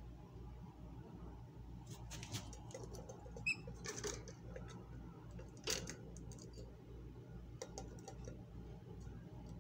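Lovebirds making faint scattered clicks and scratching sounds, with one short high chirp about three and a half seconds in, over a low steady hum.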